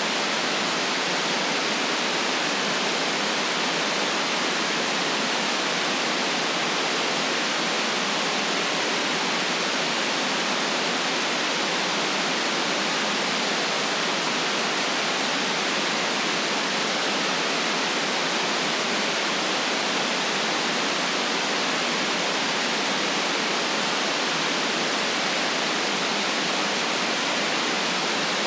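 Steady synthetic white noise: an even, unchanging hiss with no deep rumble and nothing else in it.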